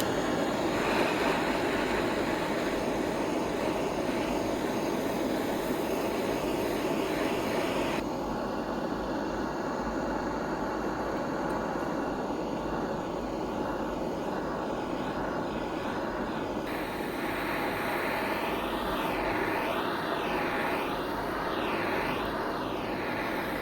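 A power tool running steadily, changing abruptly in tone about 8 and 17 seconds in.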